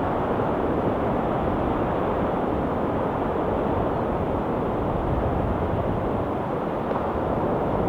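Ocean surf washing steadily, an even low rush of noise with no single wave breaks standing out.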